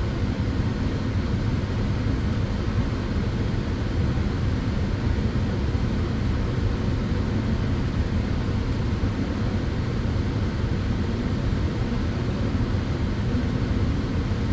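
Tanning bed running: the steady rush of its cooling fans, heaviest in the low end, unchanging throughout.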